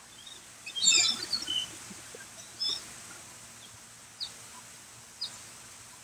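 Birds chirping: a quick cluster of high chirps about a second in, then three single short chirps spaced out over the next few seconds.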